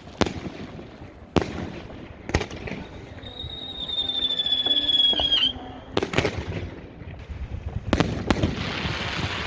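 Aerial fireworks going off close by: sharp bangs of shells bursting, some single and some in quick pairs. A high whistle slides slightly downward for about two seconds midway, and crackling rises near the end.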